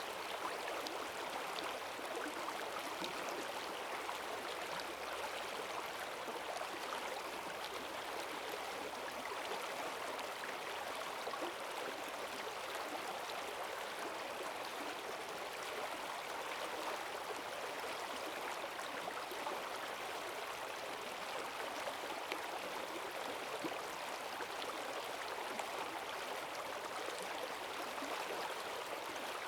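Forest stream swollen with rainwater, rushing and gurgling over its bed in a steady, unbroken wash.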